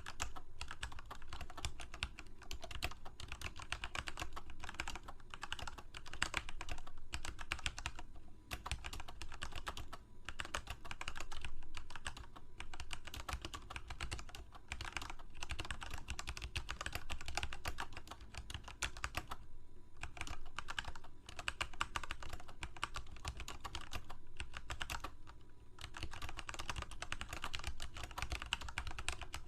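Computer keyboard typing: a fast, continuous run of key clicks, with a few brief pauses.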